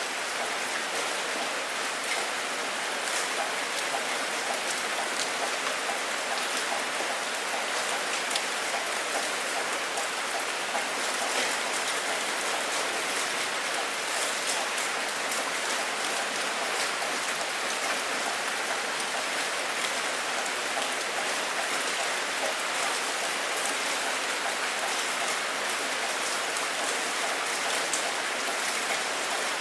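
Steady heavy rain falling on a surface, a dense even hiss with fine individual drop taps.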